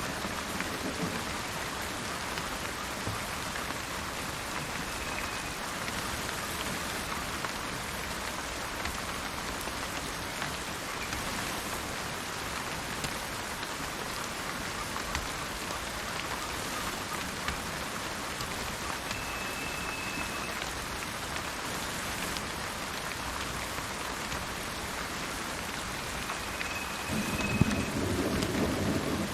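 Steady rain falling, with a low thunder rumble building in near the end. A few short, faint high whistled notes come through the rain, typical of a bird calling.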